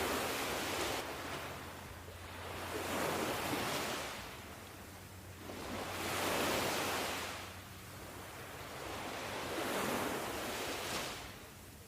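Ocean surf: waves washing in and drawing back in slow, even surges, about one every three seconds.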